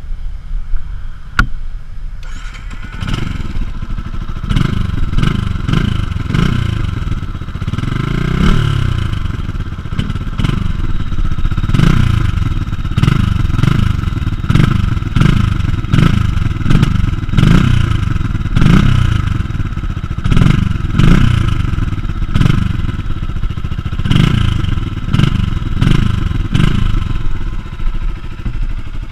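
HM CRM F125X supermoto's 125 cc single-cylinder engine with its stock exhaust, running. From about two and a half seconds in it gets louder and is revved over and over, the note rising and falling every second or two.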